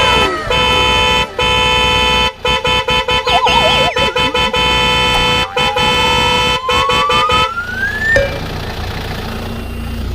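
Horn- and siren-like sound effects: steady held tones chopped on and off many times, a brief wobbling tone, then a whistle rising in pitch over about three seconds, giving way to a steady rushing hiss and rumble.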